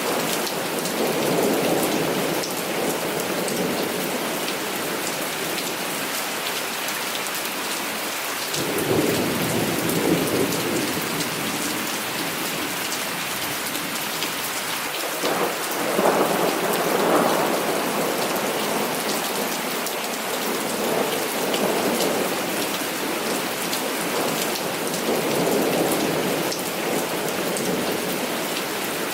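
Heavy rain falling steadily, with several rolls of thunder rumbling through it. The loudest starts with a sharp crack about fifteen seconds in, and others come near the start, at about nine seconds, and in the last ten seconds.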